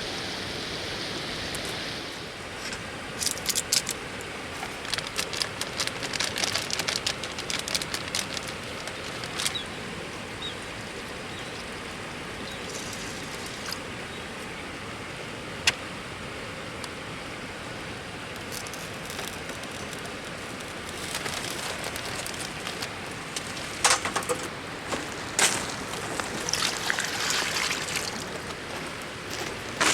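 River water flowing steadily. Scattered clicks and knocks come in two stretches, a few seconds in and again near the end.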